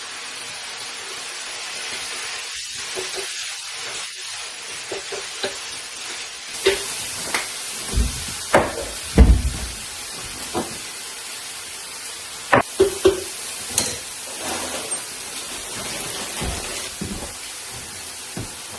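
Chicken and vegetables sizzling steadily in an electric wok, with a scattering of short knocks and clicks from utensils being worked in the pan.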